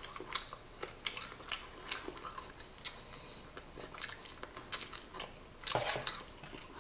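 A person chewing and biting fried chicken off the bone with his fingers: scattered short wet mouth clicks and smacks, with one longer, louder stretch near the end.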